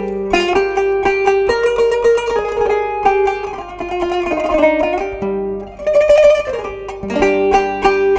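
Kanun, the Turkish plucked zither, playing a melody of quick plucked notes. The playing thins briefly a little past halfway, then picks up again.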